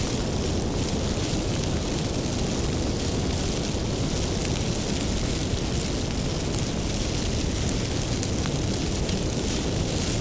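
Wood fire burning: a steady low rumble and hiss with scattered small crackles and pops.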